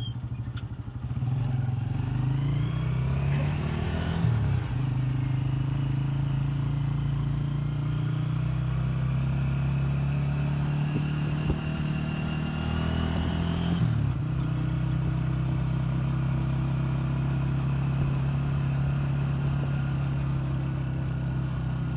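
Motorcycle engine of a Philippine tricycle (motorcycle with sidecar) running while riding. It rises in pitch as it accelerates, about two to four seconds in and again around twelve to fourteen seconds, dropping sharply at each gear change, and otherwise runs steadily.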